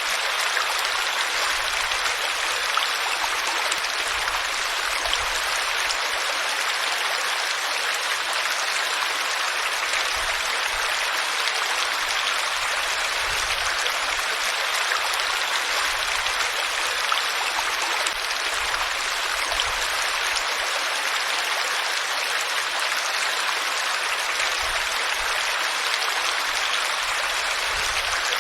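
Flowing water running steadily: an even, unbroken rush of a stream or small cascade.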